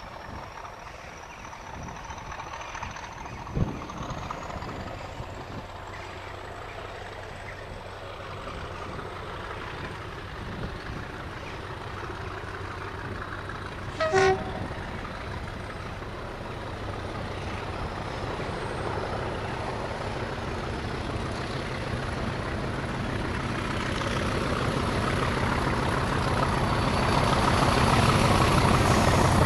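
Preserved diesel locomotive approaching, its engine growing steadily louder, with a faint high whine slowly rising in pitch. About halfway, the horn sounds one short blast.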